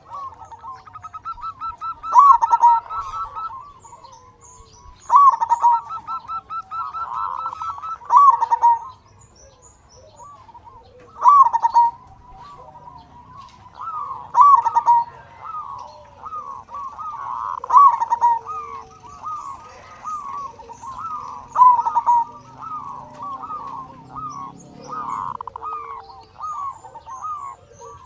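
Zebra dove (perkutut) cooing in a loud, full voice: rolling coo phrases repeat about every three seconds, with softer coos between them. Faint high chirps of small birds sit in the background.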